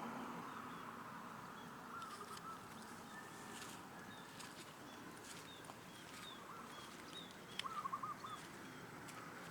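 Small birds chirping over faint outdoor ambience: a warbling phrase about two seconds in, a louder one near the end, and short high chirps between.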